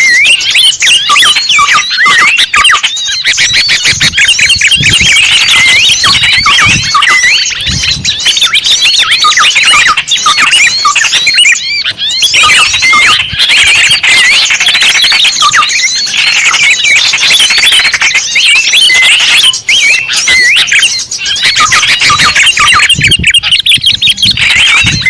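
Loud, dense chorus of many small birds chirping and twittering rapidly over one another, a recorded lure call for drawing small birds in.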